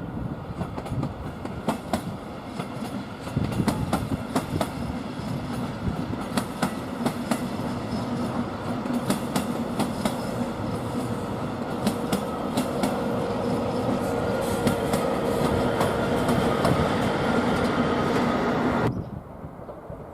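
Train moving through the station, its wheels clicking over rail joints and points above a steady rumble, with a hum that grows louder in the second half. The sound cuts off suddenly near the end.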